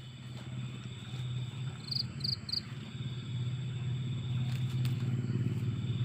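A small engine runs steadily at low revs, growing slightly louder, over a steady high trilling of night insects. Three short high chirps come about two seconds in.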